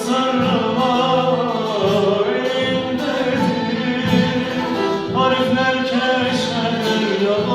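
Turkish folk music: voices singing long, melismatic, wordless-sounding lines together over instrumental accompaniment.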